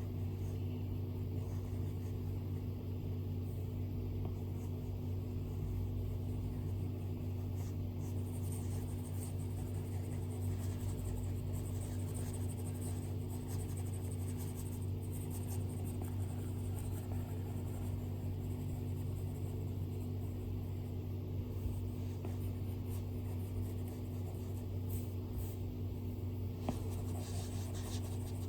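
Apple Pencil stylus strokes on an iPad screen: faint, irregular scratching and tapping over a steady low hum.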